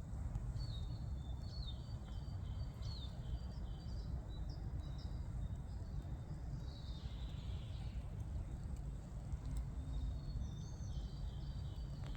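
Songbirds calling with many short, high chirps and trills, with a break in the middle, over a steady low rumble.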